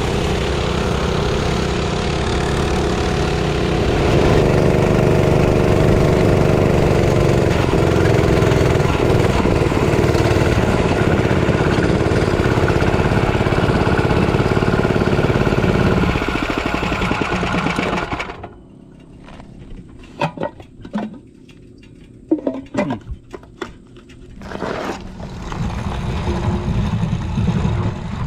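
Mini bike's small engine running steadily under throttle. About two-thirds of the way through it drops away to a much quieter stretch with scattered clicks and knocks, then an engine sound builds again near the end.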